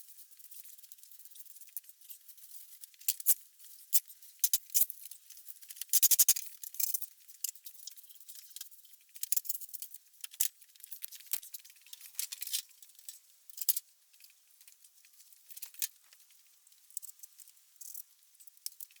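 Broom sweeping a floor: irregular short scratchy strokes and light clicks, busiest about six seconds in.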